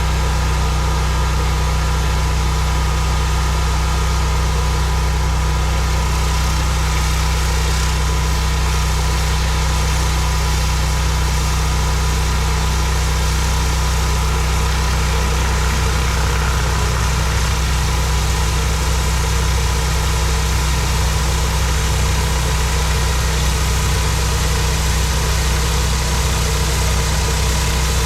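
Gas pressure washer's engine running steadily, with the continuous hiss of high-pressure water spraying onto concrete.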